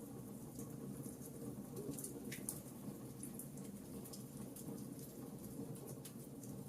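Campfire burning with a steady low rumble and irregular sharp crackles and pops from the burning wood.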